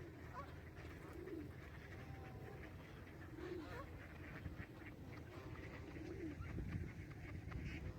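Pigeons cooing: a few soft, low coos spaced out, over a faint background rumble.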